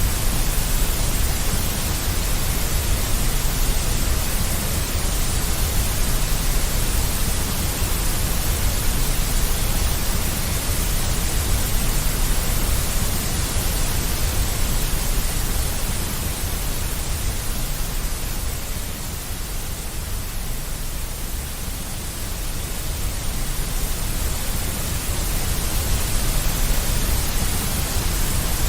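Deep white noise: a steady, even hiss with a heavy low rumble underneath, easing slightly in level about two-thirds of the way through before returning.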